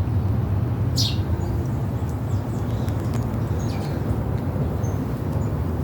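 A bird chirping once clearly about a second in, with a few fainter high chirps later, over a steady low rumble.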